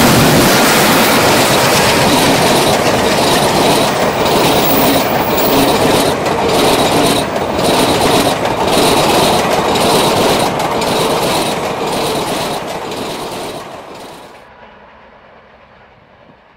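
Passenger train coaches rushing past close by at speed, the wheels clattering over rail joints in a loud clickety-clack. About fourteen seconds in the noise falls away as the last coach passes and the train moves off.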